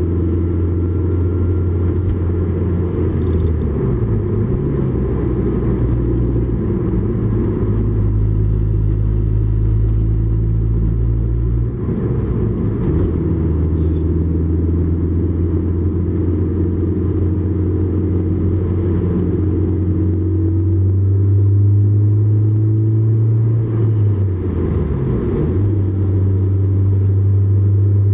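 Honda S2000 AP2's 2.2-litre four-cylinder engine and road noise heard from inside the cabin while driving at moderate speed. The engine note holds steady, dipping and recovering three times where gears are changed.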